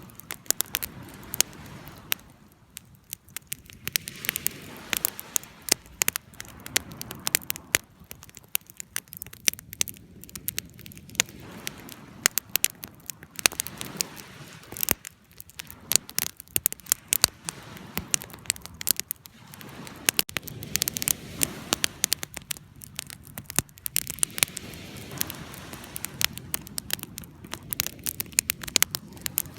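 Wood fire burning, with many irregular sharp crackles and pops over a soft low rushing of the flames.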